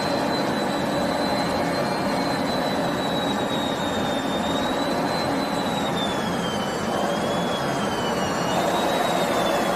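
Aircraft engine and airflow noise heard from inside the cockpit in flight: a steady rush with a thin high whine above it that wavers slowly in pitch and drops a little near the end.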